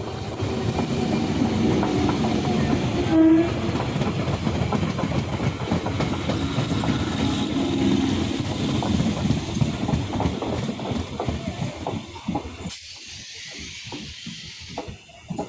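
EMU electric local train passing at speed: a steady rumble and clatter of wheels on the rails. After about twelve seconds it turns quieter, with separate sharp wheel clacks over the rail joints.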